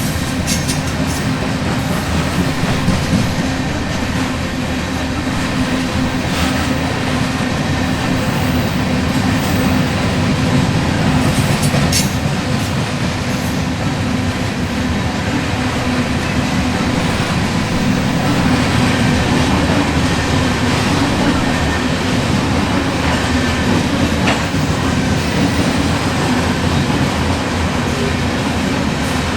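Grain train's hopper cars rolling past steadily, the wheels clacking over the rail joints, with a few sharp clicks.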